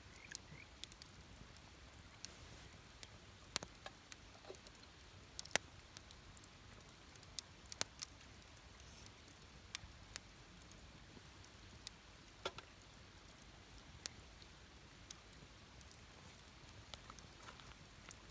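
Wood campfire crackling, with irregular sharp pops and snaps over a soft background hiss; the loudest pops come about five and a half and eight seconds in.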